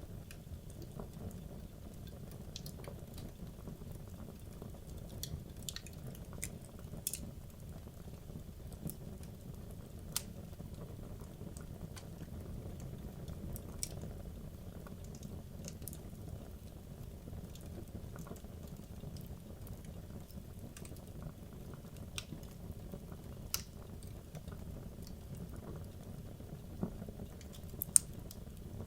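Wood logs burning in a fireplace: a steady low rush of flame with scattered sharp crackles and pops, one loud pop near the end.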